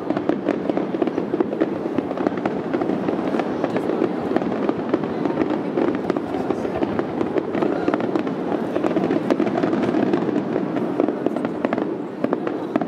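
Fireworks going off in a dense, continuous barrage: many rapid crackles and pops overlapping with no pause, dipping slightly near the end.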